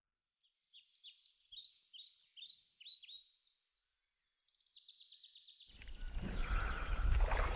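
Faint songbird calls: a string of quick, descending whistled notes ending in a rapid trill. A louder rush of outdoor noise cuts in near the end.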